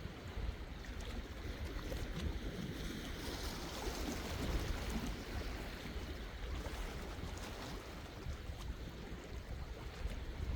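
Sea waves washing ashore in a steady wash, swelling a little louder about four seconds in.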